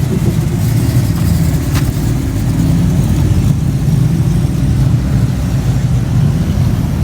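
Car engine running at low revs close by: a steady, low rumble.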